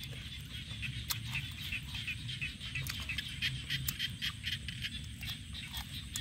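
Close, crunchy chewing of grilled frog, with sharp irregular clicks from the bones, over a steady chorus of animal calls: a dense run of short high chirps several times a second.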